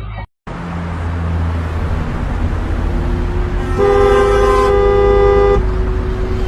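Car horn blaring steadily for about two seconds over the steady low rumble of traffic and engine noise.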